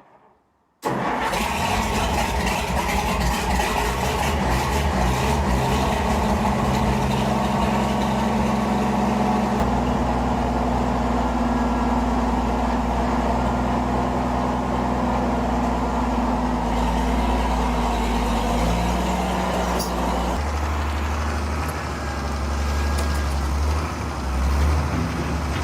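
Oliver 1550 tractor engine starting up abruptly about a second in, then running steadily, its pitch and level shifting a few times as the revs change.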